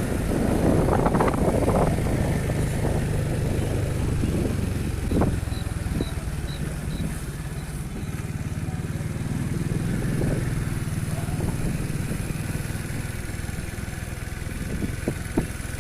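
Engine of a small motor vehicle running steadily while riding at low speed, easing off a little and picking up again about two-thirds of the way through. Five faint short high beeps sound a few seconds in.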